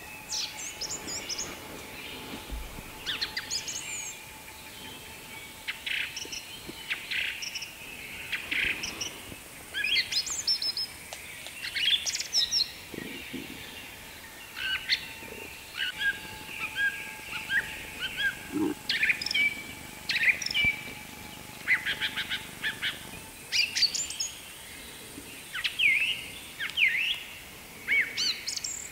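Small birds chirping and calling, with short chirps, quick trills and sweeping notes coming in scattered bursts. A faint steady tone sounds underneath.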